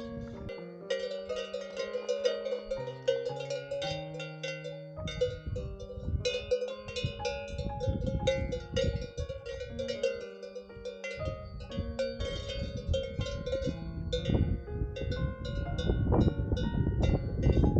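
Cowbells on grazing cattle clanking and ringing irregularly, several bells at once, with a low rumble growing louder in the second half.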